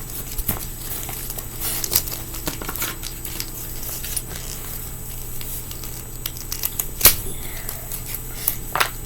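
Small clicks and crinkling from fingerboard parts and a sticker being handled, with a sharper click about seven seconds in.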